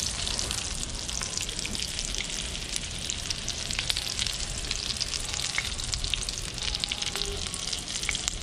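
Breadcrumb-coated mackerel chunks shallow-frying in hot oil in a pan, sizzling steadily with many fine crackles and pops.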